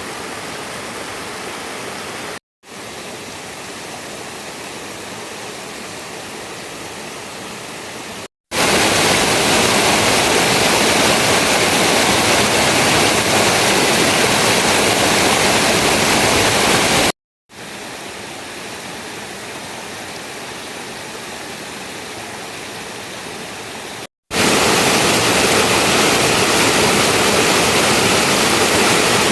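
Steady rushing water in several separately cut takes. It drops out briefly four times, and the takes alternate between a softer rush and a much louder, brighter one.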